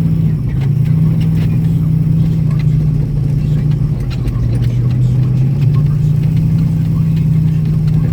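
Vehicle engine running steadily at cruising speed on a dirt track, its pitch dipping a little around the middle and coming back up, with scattered light ticks and rattles.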